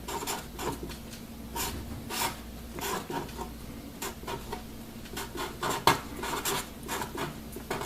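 Handwriting: irregular short scratching strokes and taps of a pen on a writing surface as an equation is written out.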